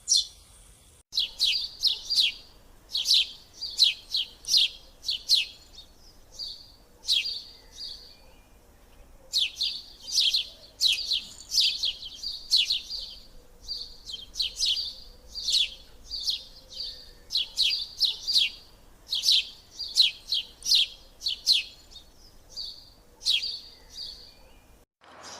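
Sparrow chirping over and over in short, sharp chirps, about two a second, with a brief pause about eight seconds in.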